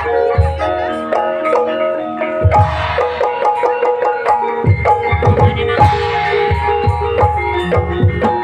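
Gamelan music of the kind that accompanies an Ebeg hobby-horse dance: mallet-struck gamelan keys ring out a melody of sustained notes over repeated low kendang hand-drum strokes.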